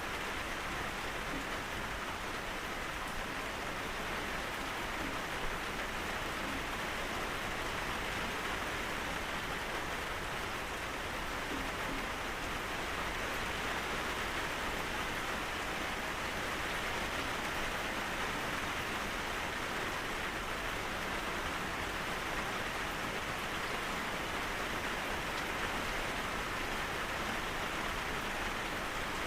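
Steady rain falling, a continuous even hiss of drops with no thunder.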